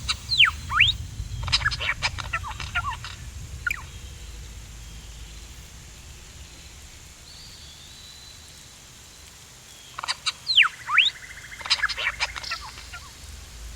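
Pteranodon sound effect: shrill bird-like screeching calls with chattering clicks, in two bouts, one at the start and another about ten seconds in.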